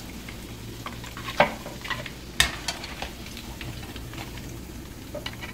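Meatballs frying in oil in a deep pan, a steady sizzle with small crackles as they are scooped out with a wire skimmer. Two sharp clicks stand out, about a second and a half in and a second later.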